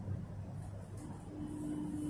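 Low rumble inside a suburban electric train carriage standing at a platform, with a steady single-pitched tone coming in about halfway through and holding.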